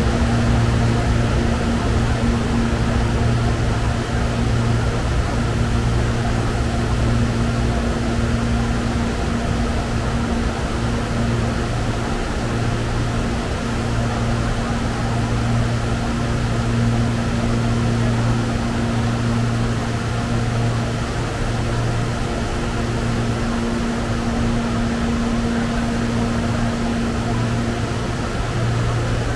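An electric commuter train standing at the platform, its air-conditioning and auxiliary equipment giving a steady low hum with an electrical buzz and a few steady tones above it.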